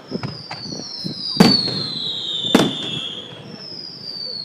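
Fireworks display: two loud bangs about a second apart near the middle, with smaller cracks and shrill whistles that slide slowly down in pitch.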